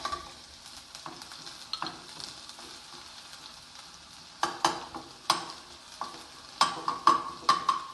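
Chopped garlic sizzling in hot oil in a kadai while a spatula stirs it, scraping and knocking against the pan in sharp clicks that come in clusters after about four seconds and again near the end.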